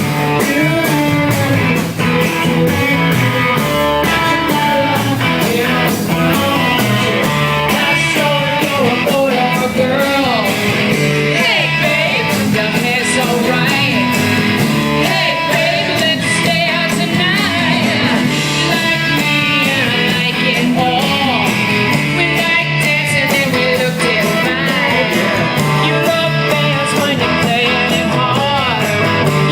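Rock band playing live at full volume: electric guitars and drums, with a sung vocal line over them.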